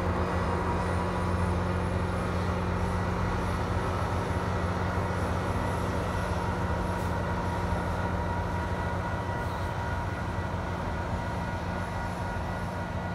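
GO Transit commuter train, its diesel locomotive and bi-level coaches, rolling past with a steady low rumble and a faint high whine over it, easing off slightly toward the end.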